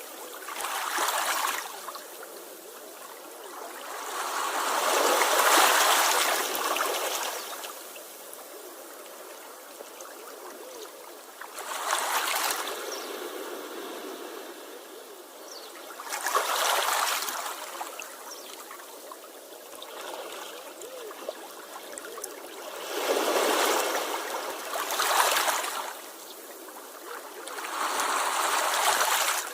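Sea waves washing in, each one swelling and fading, six times over with a few seconds between them, over a steady hiss of moving water.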